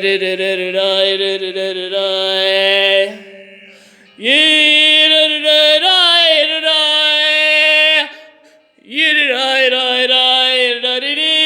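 A solo voice singing unaccompanied, three long held notes without words, the pitch sliding at the start of each; the sound lingers briefly after each note in the echo of a train tunnel.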